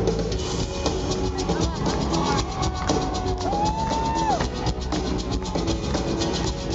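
Live rock band playing a drum, bass and shaker groove. A shaker rattles in a steady rhythm, and a held note slides up and back down about halfway through.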